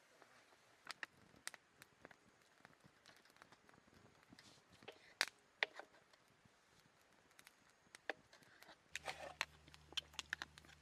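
Quiet stretch with scattered sharp clicks and taps, growing busier near the end, joined by a steady low hum about nine seconds in.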